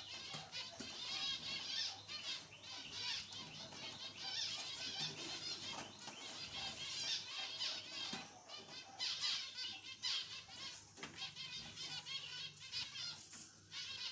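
A group of zebra finches calling: a dense, continuous chatter of many short, high chirps overlapping one another.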